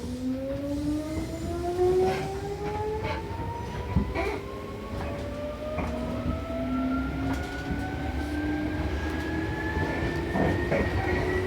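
Seibu New 2000 series electric train's traction motors whining as the train accelerates away from a station, with several tones climbing steadily in pitch. Scattered clicks from the wheels on the rails sound over the running rumble.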